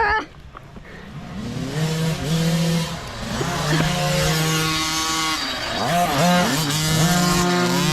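Mini bike's small engine revving under throttle: its pitch climbs about a second in, holds, then drops and climbs again twice near the end as the throttle is eased and reopened.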